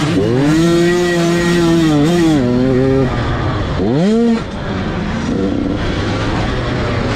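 Motocross dirt bike engine revving: it climbs and holds a high pitch for about two seconds, drops off, then gives a second short rev that rises and falls, and settles into lower running.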